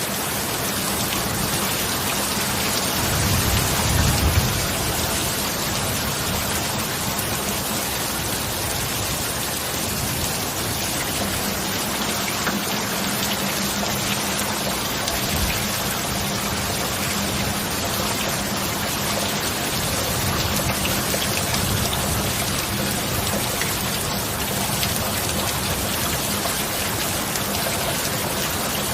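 Steady heavy rain falling as an even hiss of drops, with a brief low rumble of thunder about four seconds in.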